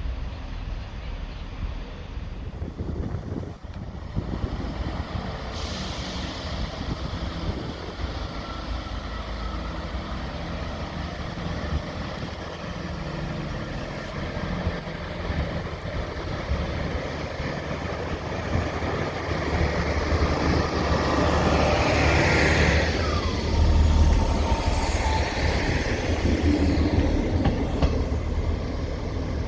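Train running at a station platform with a steady low rumble, joined by a hiss about five seconds in. It grows louder in the last third, where a high whine falls in pitch and then holds for a few seconds.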